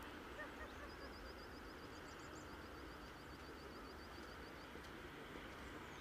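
Steady outdoor ambience with a murmuring haze. About a second in, a bird starts a fast series of short, high, repeated chirps that runs for a few seconds.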